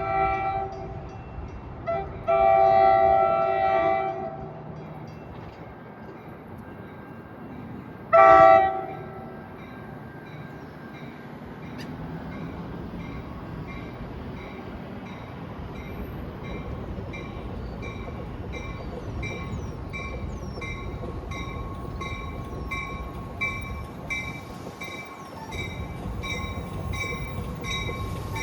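Train horn sounding a chord in blasts: a short one, a long one of about two seconds, then another short one, over the low rumble of the train. From about halfway in, a bell rings steadily, about one and a half strikes a second.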